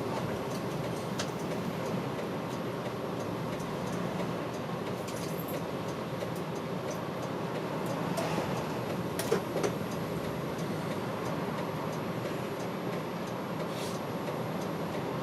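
Route bus heard from inside the cabin while driving: a steady diesel engine and road noise, with a few short rattles or clicks about nine seconds in.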